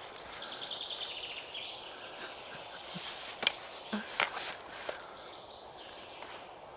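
Woodland birdsong, with a rapid high trill about half a second in and a few scattered chirps, broken by several sharp clicks around the middle.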